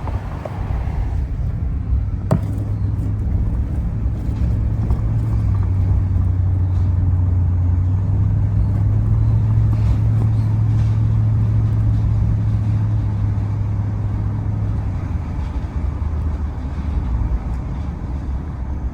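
A vehicle towing a race car along a road: steady engine and road noise as a low hum, a little louder in the middle stretch. One sharp click about two seconds in.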